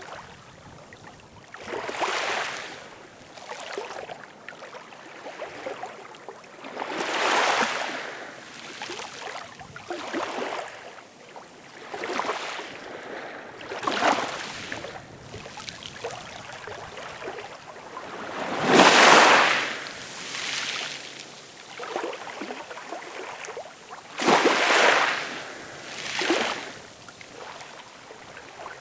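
Ocean surf: waves breaking and washing in, a rush of water noise swelling and fading every few seconds, the loudest a little past halfway.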